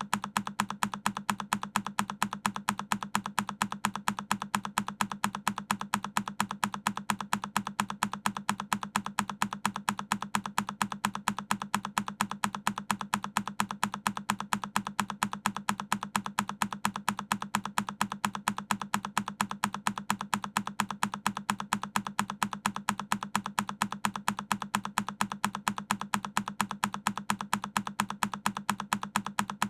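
A single key press on a Keychron K10 mechanical keyboard, repeated as an even string of clicks at about three a second.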